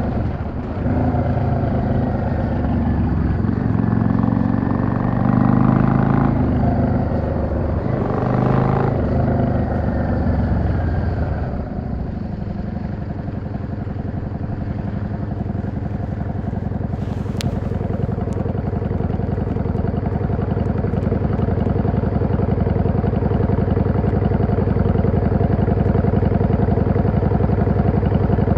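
Yamaha XVS 650 V-Star's air-cooled V-twin engine pulling through the gears, its pitch climbing and then dropping twice as gears change. From about twelve seconds in it settles into a steady, low-revving run that grows slowly louder.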